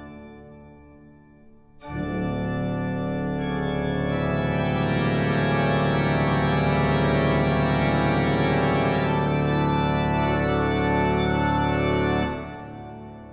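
Background music of held organ-like keyboard chords, coming in about two seconds in and fading out near the end.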